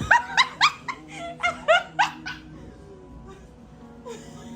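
A small dog yipping: about eight short, high, rising yips in quick succession over the first two and a half seconds, then it falls quiet.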